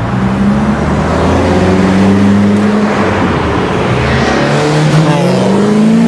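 Race car engine running at speed over a haze of noise. Its note holds fairly steady at first, then rises steadily from about four seconds in as the car accelerates.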